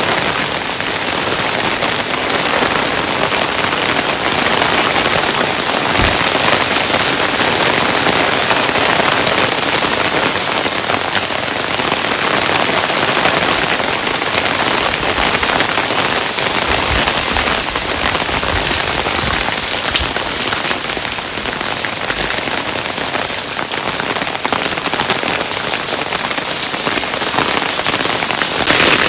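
Hailstones falling steadily and pelting a hard surface: a dense, even patter of countless small impacts, with a few low thuds in the middle.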